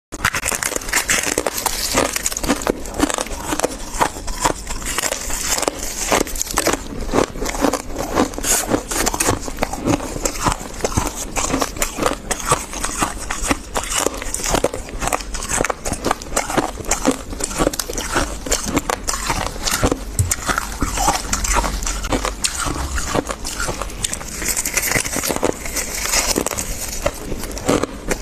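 Dry, crispy freezer frost being bitten and chewed, a dense, continuous run of crunches and crackles.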